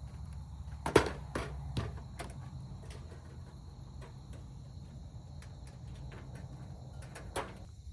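Cooking gear being handled while setting up a camp cook site: a quick series of sharp clacks and knocks about a second in, and one more near the end, over a steady low hum.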